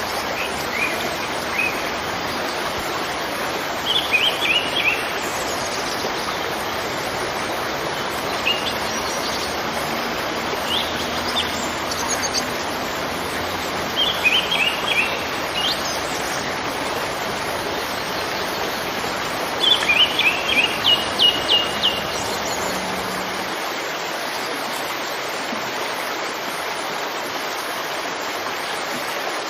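Waterfall rushing with a steady, even roar. Small birds chirp over it in short bursts of quick notes several times, with the loudest, most rapid run about twenty seconds in.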